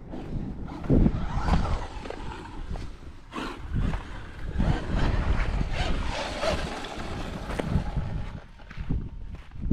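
Electric RC truck driving over dirt, its motor whirring and rising and falling with the throttle, tyres crunching and the chassis knocking over bumps. Heavy wind rumbles on the microphone throughout.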